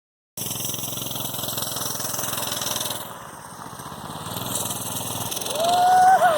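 Coleman BT200X mini bike's single-cylinder engine running, cutting in suddenly after a split second of silence, easing off about three seconds in and then revving up louder. Near the end a brief high tone rises and falls.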